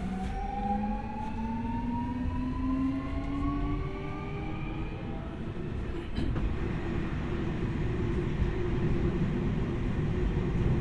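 Keio 1000 series electric train's inverter and traction motors whining, heard from inside the car, with several tones rising in pitch as it accelerates. About six seconds in there is a click, and the whine gives way to steady wheel and track rumble as the train runs on.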